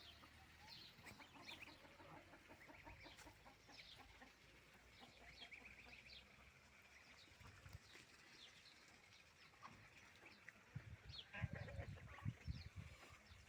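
Faint farmyard sounds: chickens clucking, with scattered small bird calls. A few muffled low bumps come about eleven to thirteen seconds in.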